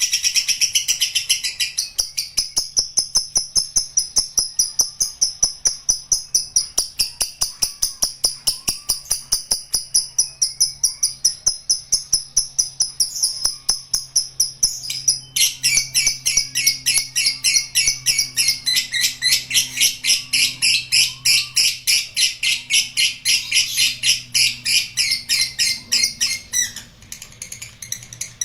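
Lovebird giving a long 'ngekek': one unbroken, rapid chattering trill of evenly repeated high notes. It grows louder and fuller about halfway through and stops shortly before the end.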